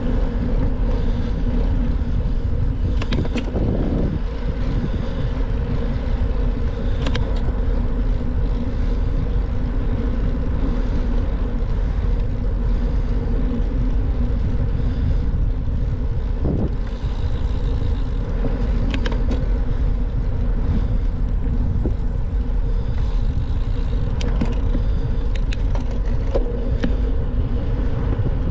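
Steady rush of wind on the microphone of a moving bicycle, with road noise underneath and a few scattered faint clicks.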